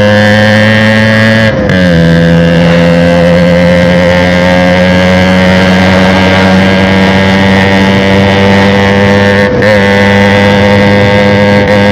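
TVS Max 100R motorcycle engine running loudly through a broken, holed silencer, holding a steady note. The pitch drops a little about a second and a half in and climbs back up about ten seconds in.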